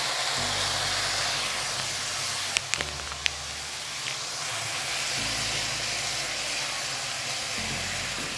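Onion-and-spice masala sizzling and hissing in a hot pan with hot water just poured in. A few sharp taps of a utensil against the pan come about three seconds in.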